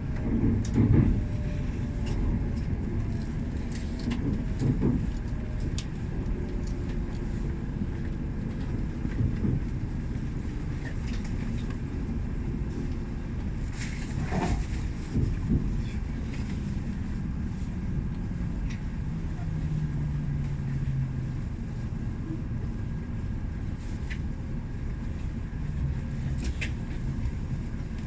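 Electric train moving through a station platform: a steady low rumble with a faint falling motor whine near the start and a few sharp clicks.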